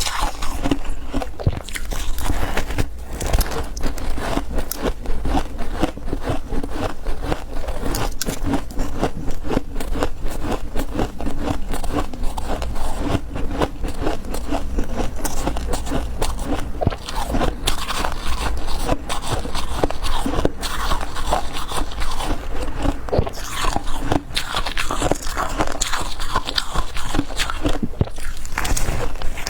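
Close-up biting and chewing of refrozen freezer frost chunks: a dense, continuous run of squeaky, crackly crunches.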